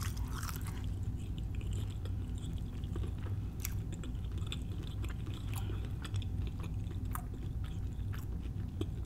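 Close-miked chewing of a fried, flaky-crusted empanada, with scattered small crackles and mouth clicks over a steady low hum.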